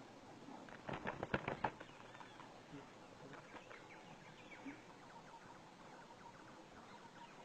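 Faint chirping calls of a bird, with a quick run of sharp taps about a second in.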